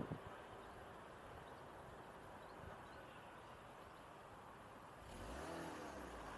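Quiet outdoor background hum, then about five seconds in a car engine comes in, its pitch sliding as it accelerates past.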